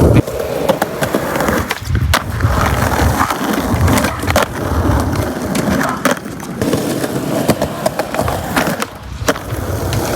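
Skateboard rolling on street pavement: a steady rumble of the wheels, broken several times by sharp clacks of the board hitting the ground.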